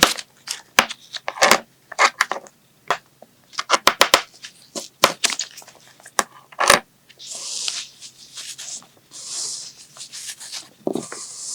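Kinetic sand being cut: a quick run of sharp, crunchy crackles for the first several seconds, then softer hissing stretches as the sand crumbles and slides.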